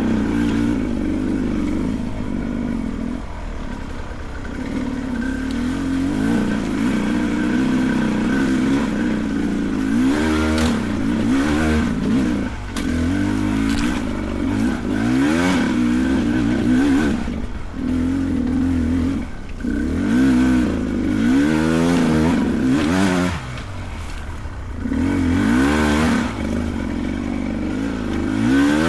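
Beta 300 Race Edition two-stroke dirt bike engine revving up and down in quick, repeated bursts under load on a steep trail climb, with clattering throughout.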